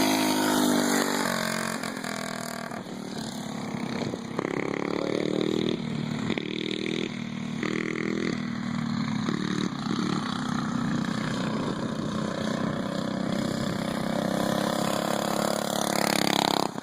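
Small mini bike engines running at speed and revving, the pitch climbing and dropping again and again as the bikes throttle up and back off.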